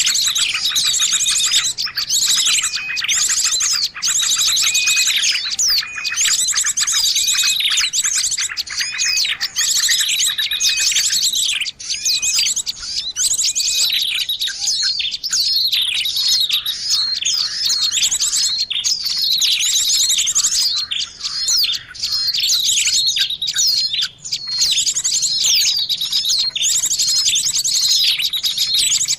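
Dense chorus of many small birds chirping and trilling at once, a noisy bird-lure call meant to draw in birds of all kinds. High-pitched chirps, rapid trills and downward-sliding notes overlap without a break.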